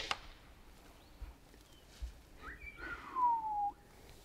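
Bird calls in open country: a short rising whistle, then a longer whistle sliding down in pitch about three seconds in.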